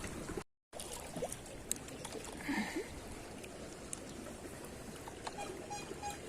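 Steady low wash of water at the shore, broken by a brief dead-silent gap about half a second in. Near the end a faint regular beeping begins, about two beeps a second.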